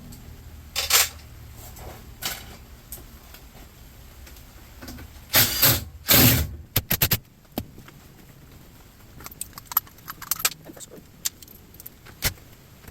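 Metal parts clanking and rattling as a washing machine is taken apart for scrap, with loud rattling bursts about a second in and again around five to six seconds, then scattered clicks. A steady low hum runs underneath and stops about seven seconds in.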